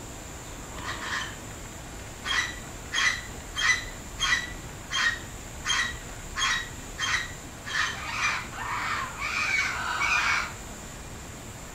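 A bird squawking in a steady series, about three calls every two seconds, then a longer, wavering call near the end.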